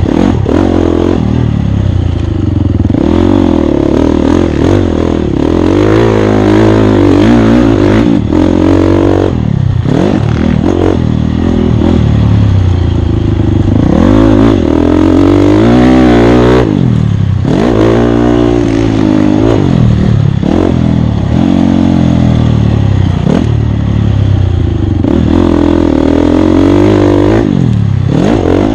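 Off-road dirt bike engine under racing throttle, the revs climbing and dropping again every second or two as it accelerates, shifts and backs off.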